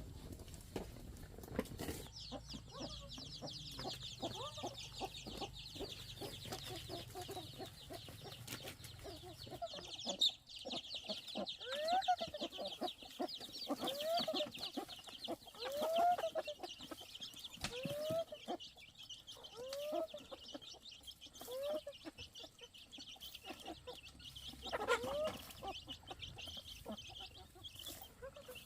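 Chickens calling: a series of short rising-and-falling calls about every two seconds, over a steady high chirring that starts about two seconds in.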